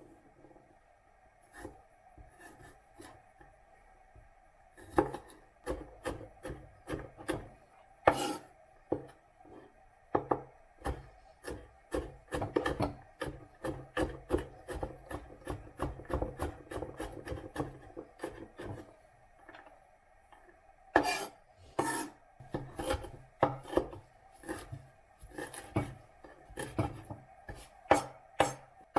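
Kitchen prep on a wooden cutting board: a knife tapping, chopping and scraping in irregular strokes, with quicker runs of strokes in the middle and near the end. A faint steady hum sits underneath.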